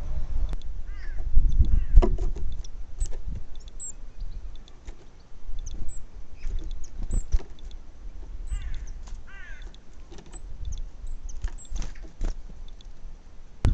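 Small garden birds calling with short chirps and quick falling call notes, over a low, uneven rumble, with a few sharp knocks.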